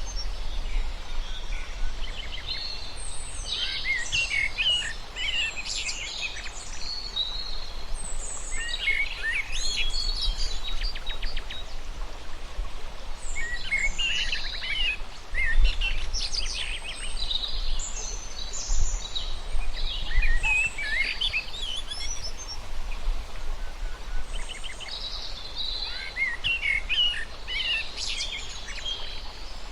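Birds singing in repeated bouts of quick chirps and trills, a new phrase every few seconds, over a low rumble.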